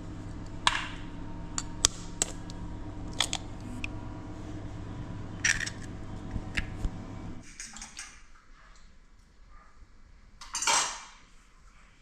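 Metal utensils clinking and tapping against pots and pans during cooking, as sharp separate clicks over a steady hum. The hum stops suddenly about seven and a half seconds in, and a single louder rushing noise comes near the end.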